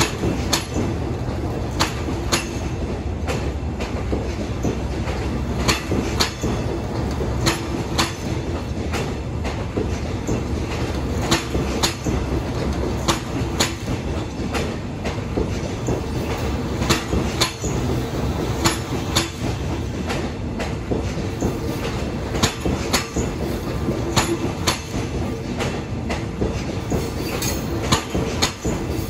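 Passenger train coaches rolling slowly along the platform as the train arrives, a steady low rumble broken by sharp wheel clacks over the rail joints, one to a few each second.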